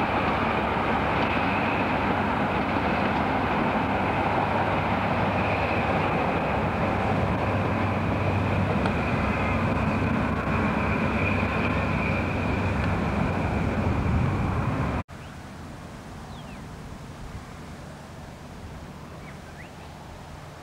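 Diesel-hauled train running past, a steady heavy rumble with a steady high whine over it. About 15 seconds in it cuts off abruptly to a much quieter outdoor background.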